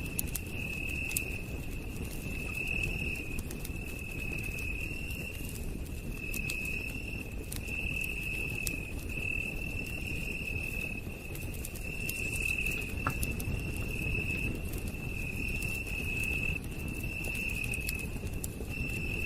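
Campfire crackling with scattered sharp pops over a low rumble, while a night insect trills steadily in high-pitched pulses just under a second long, about once a second.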